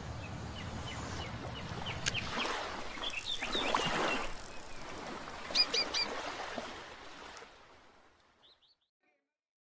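Small birds chirping in short, high calls over a steady background hiss, the whole fading out near the end.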